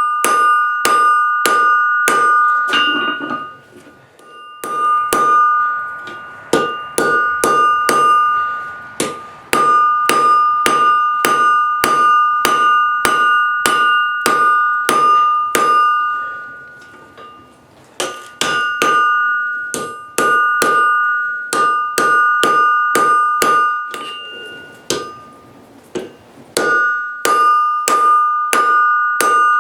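Blacksmith's hammer striking hot steel on an anvil, about three blows a second, the anvil ringing with a clear high tone after each blow. The blows come in runs with a few short pauses.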